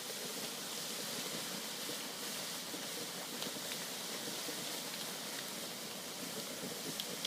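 Noodles deep-frying in hot oil in a wok: a steady sizzling hiss with a few faint crackles.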